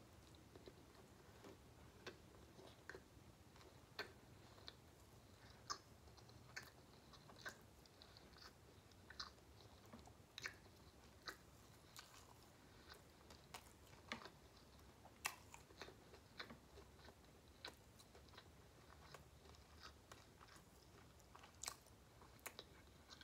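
Faint, close-up chewing of a mouthful of blackened mahi-mahi sandwich, with soft wet mouth clicks spaced irregularly about once a second.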